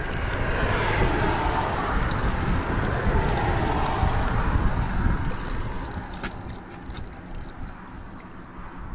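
Water being poured from a plastic bottle into a bicycle water bottle, over wind buffeting the microphone, with a few clicks of bottle handling. The pouring fades after about five seconds.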